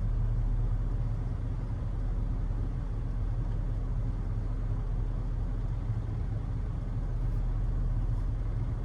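Steady low rumble of a vehicle engine running, heard from inside the cabin.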